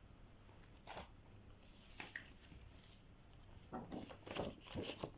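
Faint, scattered rustling and small knocks of handling noise, with a denser cluster of louder rustles and knocks in the last second and a half.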